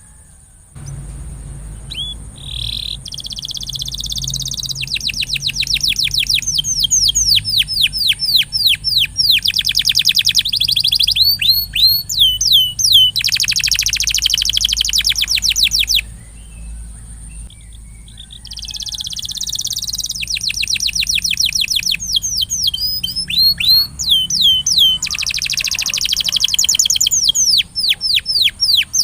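Domestic canary singing a long song of fast rolling trills and chirps, breaking off for about two seconds about halfway through before starting again. A faint steady high tone and a low hum run underneath.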